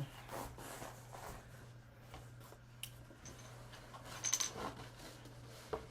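Quiet room with a steady low hum and a few faint clicks and rustles; the loudest is a short clatter about four seconds in.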